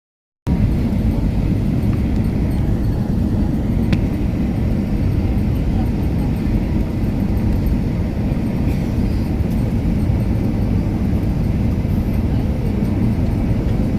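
Steady low rumble of an airplane landing, dense and unbroken, beginning abruptly about half a second in.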